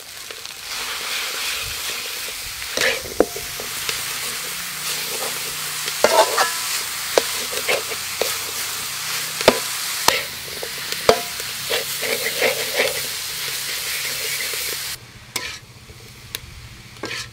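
Minced meat and pea eggplants sizzling in a hot oiled wok. A spatula scrapes and clicks against the metal pan as the food is stirred. The sizzle starts just after the meat goes in and cuts off suddenly near the end.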